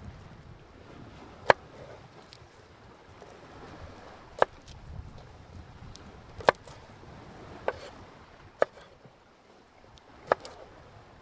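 Chopping on wood: six sharp, separate strikes at irregular gaps of one to three seconds.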